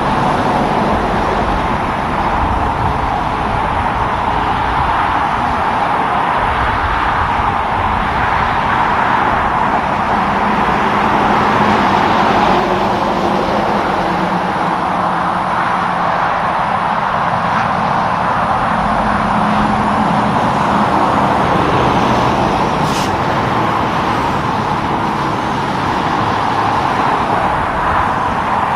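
Steady road traffic noise: the tyre rush and engine sound of passing vehicles, with a lower engine hum from a heavier vehicle coming in for several seconds in the middle.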